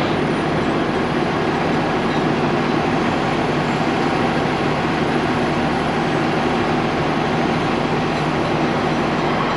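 Heavy diesel engine running at a steady speed: a loud, even drone with a low hum under it.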